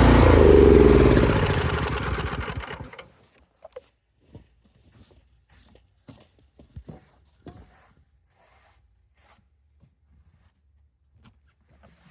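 A small engine running loudly, then shutting off and winding down, its pitch falling until it stops about three seconds in. Faint scattered clicks and knocks follow.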